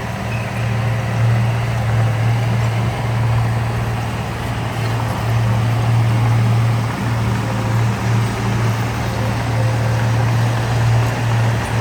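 Diesel engine of heavy earthmoving equipment running steadily with a deep, constant hum.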